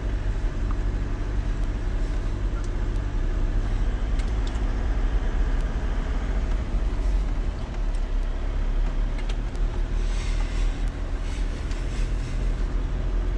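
An engine running steadily with a low, even rumble, with a short hiss about ten seconds in.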